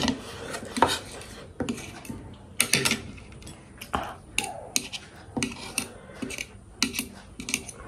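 Eating sounds: chewing, with irregular sharp smacks and clicks about once or twice a second.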